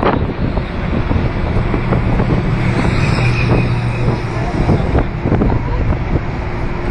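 Road traffic at a roadside stop, with wind buffeting the microphone. A steady vehicle engine hum stands out from about one and a half to four and a half seconds in.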